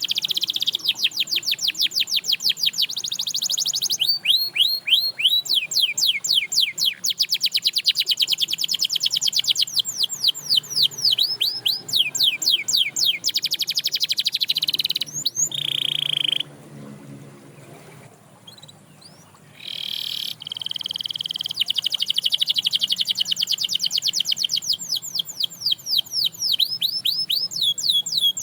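Canary singing in long, rapid trills of quickly repeated high notes. A quieter break of about three seconds past the middle interrupts it before the trills start again.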